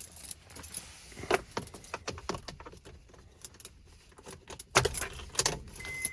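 Car keys jangling and clicking, with a few knocks, as they are handled around the ignition. Near the end a car's steady warning chime starts beeping.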